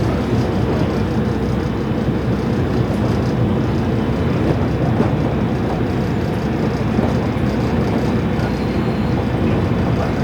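KiHa 40-series diesel railcar with its original DMF15HSA engine running, a steady engine drone mixed with the running noise of the train on the rails.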